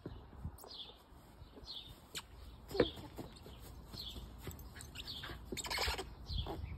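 A bird calling repeatedly, a short chirp about once a second, with a sharp louder sound about three seconds in and a brief rush of noise near the end.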